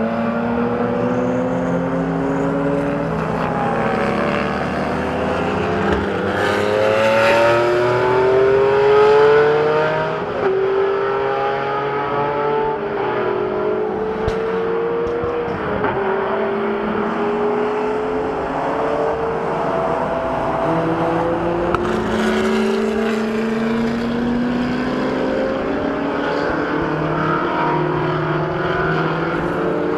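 Supercar engines accelerating hard, the pitch climbing and then dropping back again and again as they shift up through the gears, loudest about a third of the way in.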